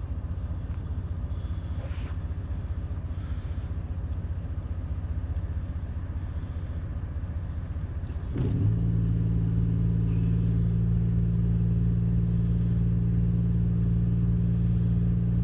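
A low steady rumble, then about eight seconds in a semi truck's auxiliary power unit (APU) engine starts and settles into a louder, steady running hum.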